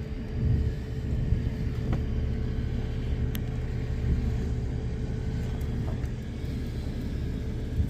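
Steady low rumble with a constant hum from a running machine or motor, with one faint click about three seconds in.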